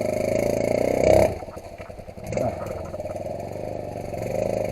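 Off-road dirt bike engine blipped on and off at low speed while picking its way over roots and rocks: a rev that climbs and cuts off about a second in, then further shorter swells of throttle.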